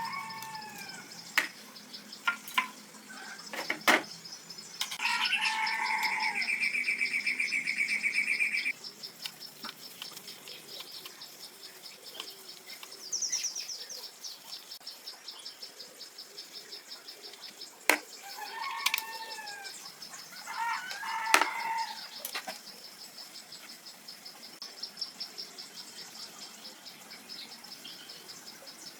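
Birds chirping in short falling calls over a steady, rapidly pulsing high insect trill, with a buzzing trill for a few seconds early on and several sharp knocks.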